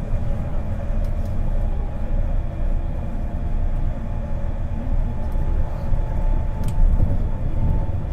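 Onboard running noise of a Kobe New Transit 2020-series Port Liner car, a rubber-tyred automated guideway train, cruising: a steady low rumble with a steady hum over it and a couple of faint clicks.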